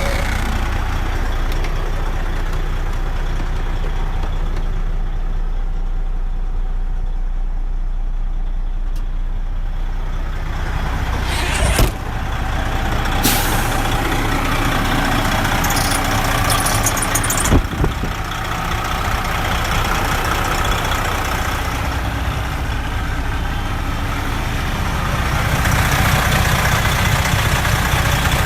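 Diesel engine of a 2006 Freightliner Century C120 semi truck idling steadily. Short hisses of air come a few times around the middle, with a couple of sharp knocks.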